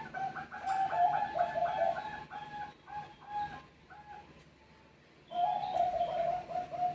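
Zebra doves (Bangkok perkutut) cooing: a quick run of short, repeated coo notes, with a second bird's notes overlapping for a couple of seconds, tailing off about four seconds in. A fresh series of coos starts just past the five-second mark.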